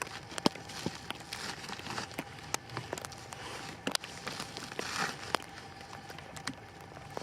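Irregular crinkling and crackling of plastic wrap being handled and stretched around a stick frame, with crunching steps in snow.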